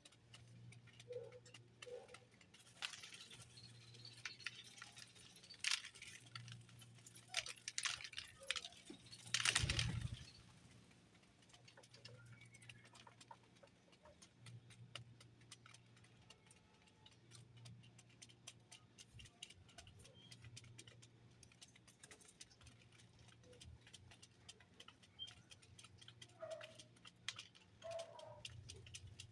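Birds at a feeder: many small clicks and taps throughout, with a louder rattle about nine seconds in. A dove coos softly a few times near the end.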